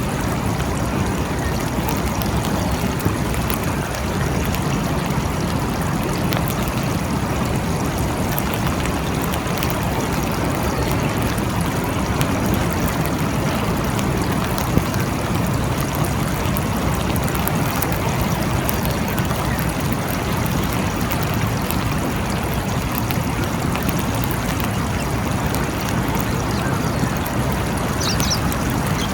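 Steady heavy rain falling in a forest, an even, unbroken hiss with scattered faint drip ticks.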